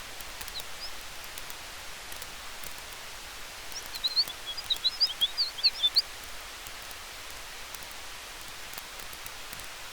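Campfire and forest-wind ambience: a steady hiss with faint scattered crackles of burning wood. About four seconds in, a bird twitters in a quick burst of high chirps lasting about two seconds, louder than the fire.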